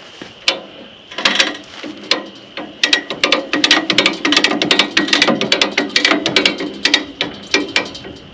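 A hand ratchet being worked in quick strokes, its pawl clicking rapidly in bursts, tightening a line hooked to a tractor's front-loader bucket to lift it back onto its perch.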